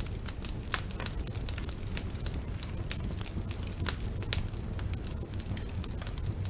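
Wood fire burning in a fireplace, with many irregular sharp crackles and pops over a steady low rumble of the flames.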